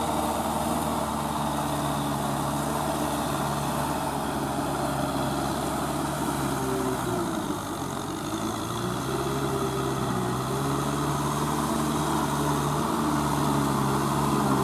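Kubota M6040SU tractor's diesel engine running steadily under load while rotary-tilling soft, waterlogged paddy mud. The engine note dips about halfway through and then picks up again.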